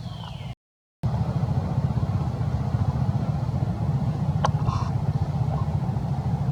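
A motorbike engine running steadily with a low rumble. A short gap of total silence just after the start is an edit. A brief click and a short high tone come about four and a half seconds in.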